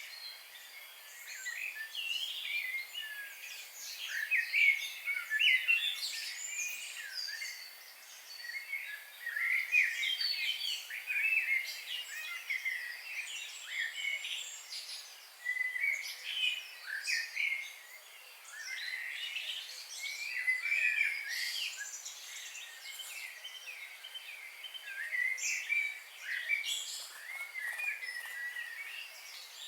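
A dawn-chorus-like mix of several songbirds singing and chirping at once, short whistled and trilled notes overlapping without a pause, over a faint steady hiss.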